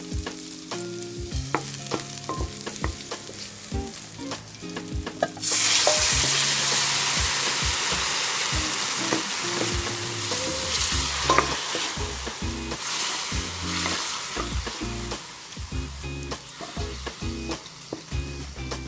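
Pork and liver igado frying in a pan: a utensil taps and scrapes as it stirs. About five seconds in, a loud sizzle starts suddenly and slowly dies down over the following ten seconds, with the stirring taps going on.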